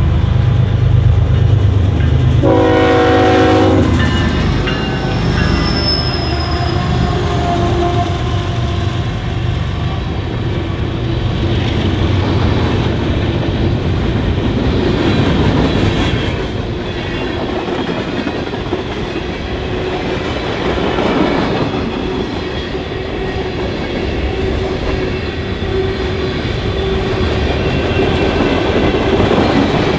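Norfolk Southern diesel freight train passing close by. The locomotive horn sounds one short blast about three seconds in over the engines' deep rumble, then the freight cars roll past with a steady clatter.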